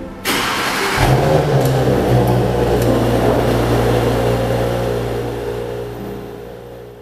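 Audi S5 Sportback's turbocharged 3.0-litre V6 starting up: a sudden burst of noise, the engine catching about a second in with a short flare of revs, then settling into a steady idle through the quad exhaust. The sound fades out near the end.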